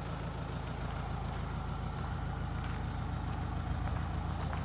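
Mitsubishi Rosa bus's 4D33 four-cylinder diesel engine idling steadily.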